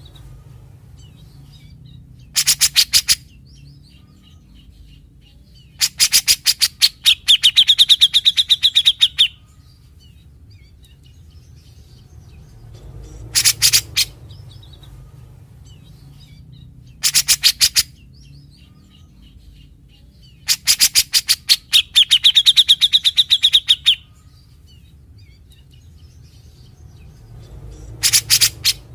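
Grey-cheeked bulbul (cucak jenggot) calling in repeated bursts of harsh, rapid rattling notes: the rasping 'besetan' this bird is kept for. Two longer runs, about six seconds in and again past twenty seconds, end in a buzzy, higher trill.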